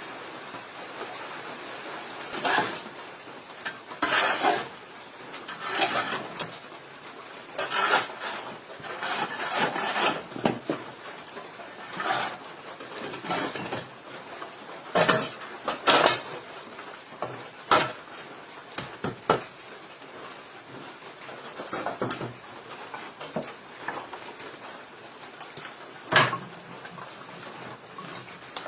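Cookware and utensils clattering and knocking irregularly in a small room, with sharp clacks scattered throughout, the loudest about sixteen seconds and twenty-six seconds in.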